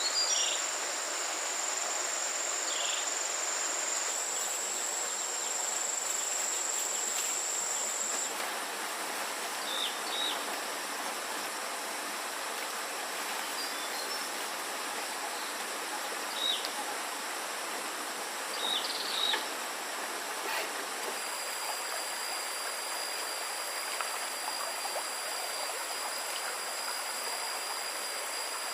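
Forest ambience: a steady rush of running water with insects droning at a constant high pitch. One drone stops about a quarter of the way in and a slightly lower one starts about two-thirds through, with a few short chirps scattered between.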